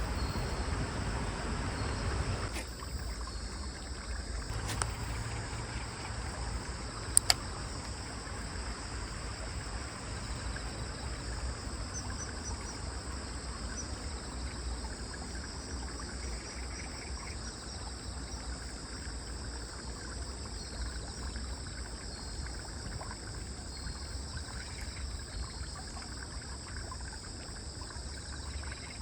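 Steady insect chorus of crickets chirring in two high, even bands over a low steady background noise that eases off a couple of seconds in. Two sharp clicks sound close together about seven seconds in.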